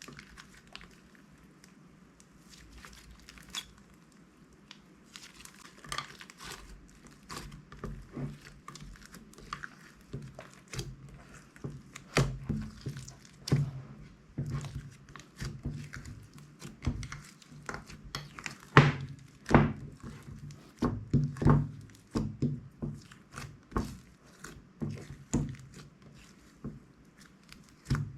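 Slime being pressed and squished by hand, making irregular sticky clicks, pops and soft thuds. The sounds grow louder and more frequent about halfway through.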